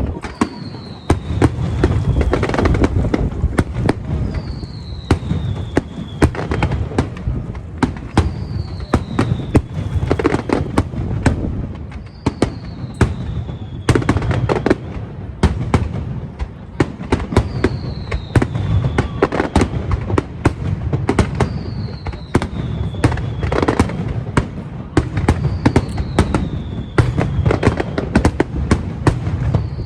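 Fireworks display going off in a continuous barrage of bangs and crackles. A short falling whistle comes about every four seconds.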